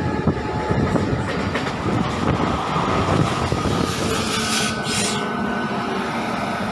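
MEMU electric passenger train running on the track, a steady rumble and rattle, with a short hiss about two-thirds of the way through.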